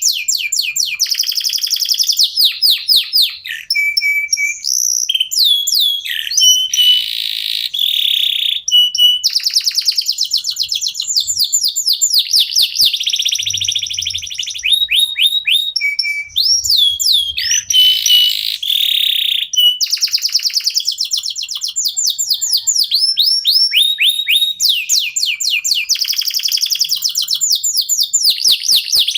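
Domestic canary singing without pause: fast trills of rapidly repeated sweeping notes, broken by short buzzy rolls and brief held whistled notes.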